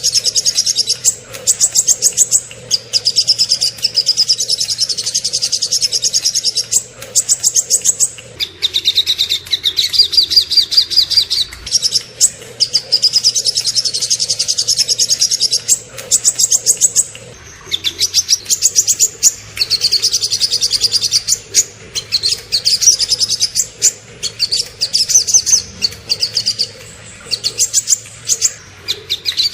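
Small songbirds singing rapid, high trills of fast-repeated notes in phrases of a second or two, with brief breaks between them: the fast 'tembakan' song that a masteran recording holds.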